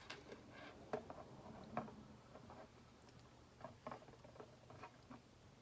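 Faint, scattered clicks and taps of small plastic LEGO pieces and minifigures being handled.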